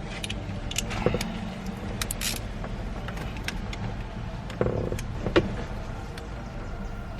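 Hand tools and a Torx bit socket clicking and tapping against metal while the steering column's mounting bolts are worked on. The clicks are scattered and sharp, over a steady low hum.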